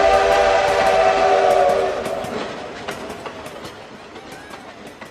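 Train horn sounding a sustained chord over rolling train noise; the horn stops about two seconds in and the train noise fades away with faint clicks. This is a train sound effect at the end of a party song.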